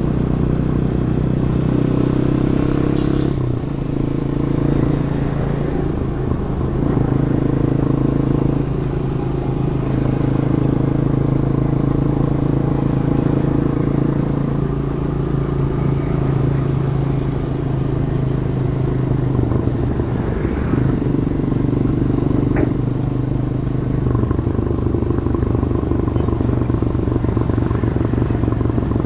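Demak DTM 150's 150 cc single-cylinder engine through its stock exhaust, running while riding, its note shifting several times with throttle and gear changes. A single short click about three-quarters of the way through.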